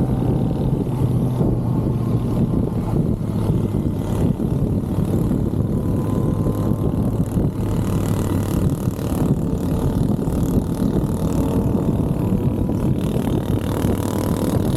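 Stock 2023 Kawasaki ZX-6R inline-four engine running at a steady pitch while riding, mixed with dense wind and road noise.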